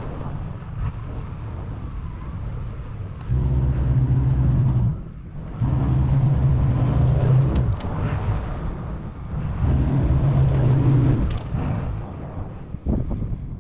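Snowplow truck's engine running, getting louder three times for about two seconds each, with a few faint clicks near the end.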